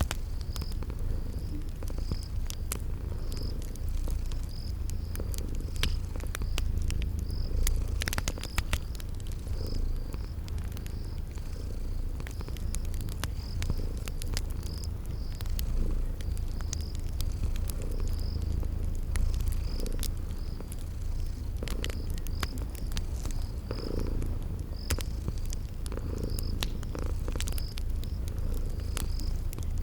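A cat purring with a steady low rumble, mixed with a wood fire crackling in scattered sharp pops and a cricket chirping at an even pace, about one to two chirps a second.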